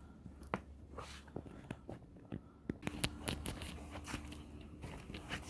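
Snow crunching: a quiet run of irregular, crisp crunches and clicks over a low steady hum.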